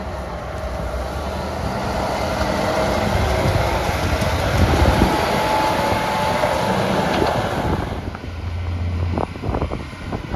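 A motor vehicle passing close by: its noise builds over several seconds, holds, then drops away about eight seconds in.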